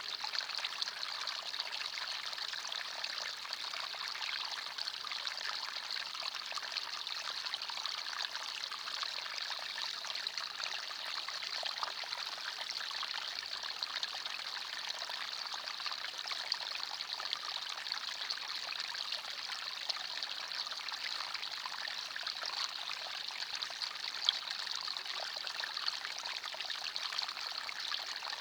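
Small forest stream flowing and trickling over stones, a steady bright babble of water.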